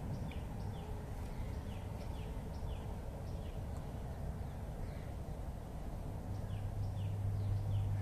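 A bird chirping repeatedly in short, faint falling notes, several a second, over a steady low outdoor rumble. A low hum swells up about six seconds in.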